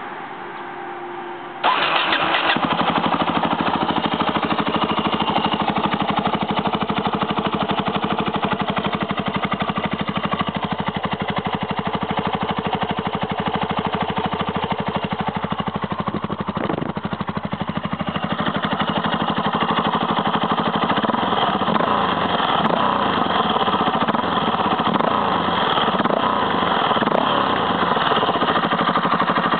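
Yamaha XT660X single-cylinder engine starting through a Virex carbon aftermarket silencer, catching about two seconds in and then idling steadily, getting a little louder in the later part.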